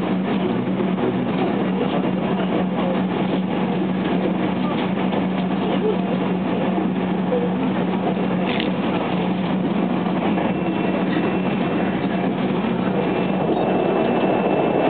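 Running noise inside a JR West 287 series electric limited express train at speed: a steady rumble of wheels on rail over a low hum, with a faint high whine joining about two-thirds of the way through. Near the end the rumble grows louder and fuller as the train crosses a steel truss bridge.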